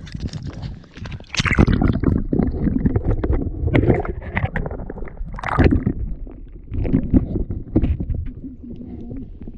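Water sloshing and gurgling in irregular, loud, muffled surges around a microphone at or under the water surface, as a person swims and moves through the water.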